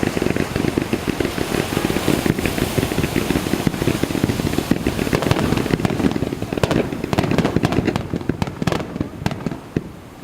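Fireworks display: a dense, continuous barrage of shell bursts and crackling, thinning out near the end to separate sharp cracks.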